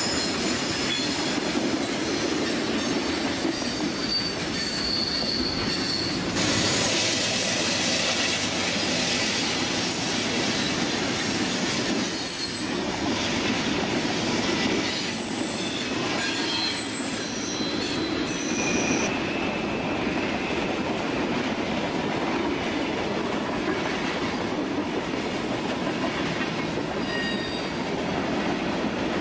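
Freight cars of a long mixed freight train rolling by on a curve: a steady rumble of steel wheels on rail, with short high-pitched wheel-flange squeals that come and go.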